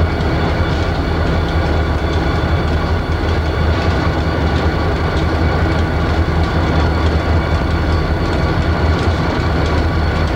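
Freight train rolling through a rail yard: a steady, loud rumble of cars on the track with a low drone underneath.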